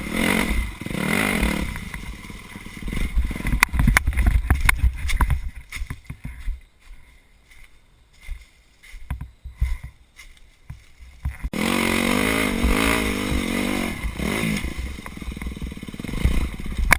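Dirt bike engine revving up and down, with scattered clattering knocks. The engine fades to a faint level for several seconds in the middle, then returns abruptly and loud about eleven seconds in.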